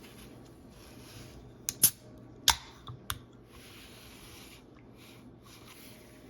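Snack packaging being handled: soft crinkling rustles with a cluster of sharp snaps, the two loudest about two and two and a half seconds in.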